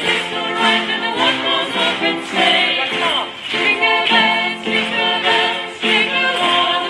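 Vocal ensemble singing a Christmas song in harmony, with held notes.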